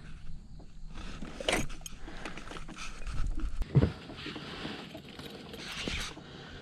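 Handling noises on a kayak: scattered clicks, light metallic clinks and rubbing as a freshly landed giant snakehead is handled and the spinnerbait worked free, with one short louder thump about four seconds in.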